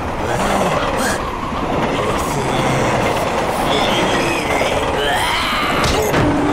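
Passenger train running along the rails: a steady, loud rush of wheel and track noise with a few faint knocks.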